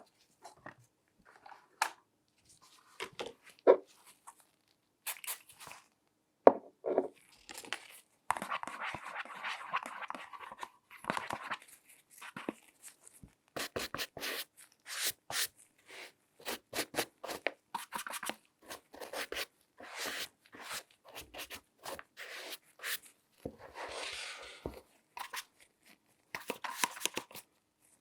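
Close-miked handling sounds: a run of irregular clicks and taps, with longer scratchy rubbing and scraping stretches about a third of the way in and again near the end.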